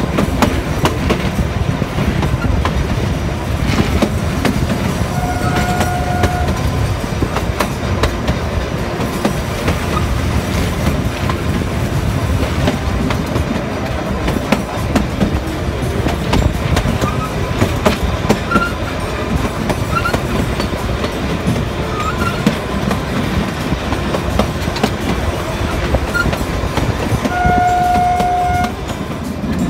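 Kalka–Shimla narrow-gauge toy train running, heard from an open coach door: a steady rumble and rattle of the carriages, with the wheels clicking over rail joints. Two short horn blasts sound, one about five seconds in and one near the end.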